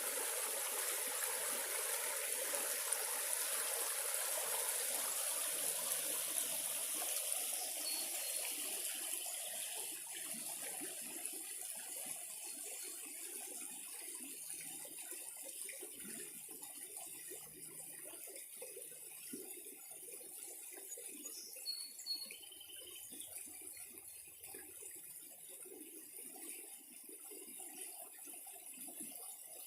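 Creek water running as a steady rush that slowly grows fainter, with a few brief bird chirps about eight seconds in and again after twenty seconds.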